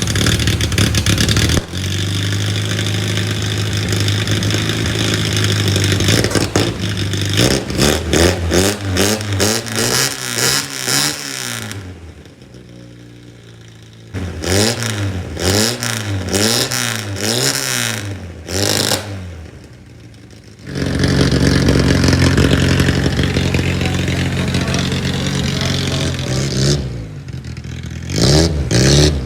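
Car engine running through a newly built custom exhaust, idling steadily, then blipped in a quick series of revs that rise and fall, with two short lulls, then idling again.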